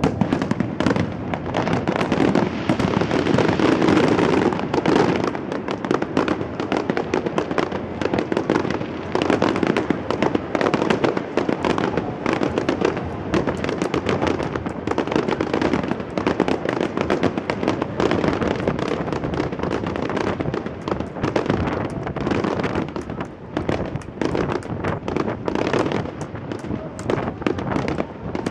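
Fireworks display: a dense, unbroken run of bangs and crackles, many bursts overlapping.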